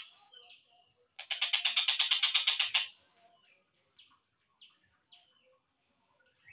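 Kingfisher (tengkek buto) calls on a slowed-down song recording: a loud rapid chattering series of repeated notes, about eight a second, lasting under two seconds, followed by a few short, faint, falling chirps.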